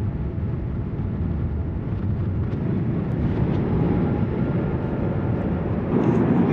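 Steady rumble of a vehicle in motion, a continuous low noise that grows slightly louder near the end.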